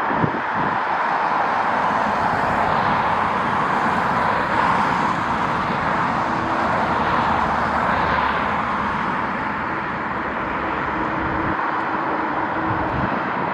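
Jet airliner engines running as the aircraft passes, a steady noise that is brightest in the first half, mixed with gusty wind.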